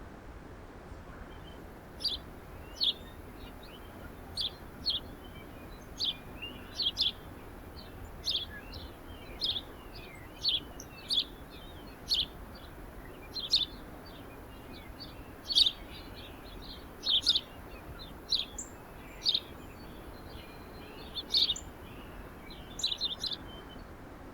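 Songbirds giving short, sharp, high chirps, one or two a second and sometimes in quick pairs, starting about two seconds in and going on almost to the end, over a steady low background hum.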